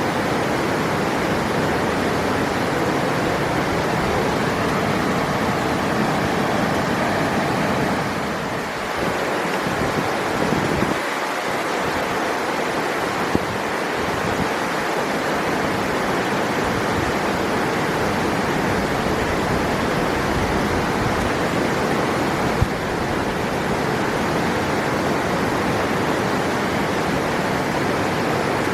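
River water rushing and tumbling over rocks in a steady, loud, even rush.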